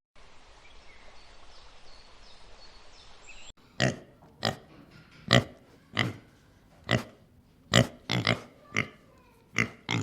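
Faint outdoor background with a few faint high chirps, then after a cut an animal giving a series of about a dozen short calls, one every half second to a second.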